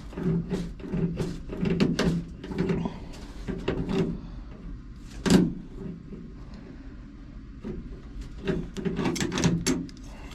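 Metal clicks, clanks and rattles from a combine's sieves being adjusted by hand, with one sharper knock about halfway through. A low, steady-pitched hum comes and goes underneath, in the first few seconds and again near the end.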